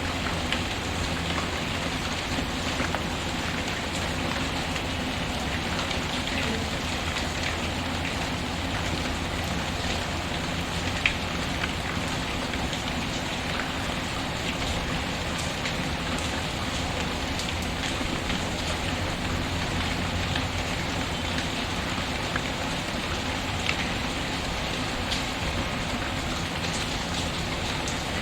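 Steady rain pattering, with scattered sharp crackles from a wood fire in a fireplace and one louder pop near the middle.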